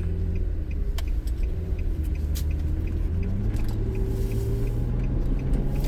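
Car engine and road noise heard from inside a moving car: a steady low hum whose pitch shifts a little, with a faint even ticking.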